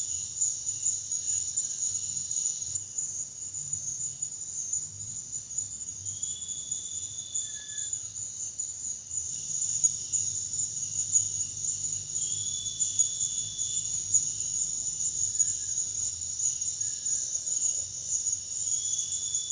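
Forest insect chorus: a steady, high, shrill drone, with a second insect's long, even note repeating about every six seconds. A few faint short chirps can be heard.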